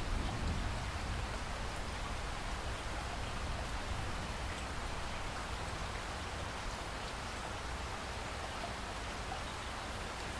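Steady rain falling: an even hiss with occasional faint drop ticks.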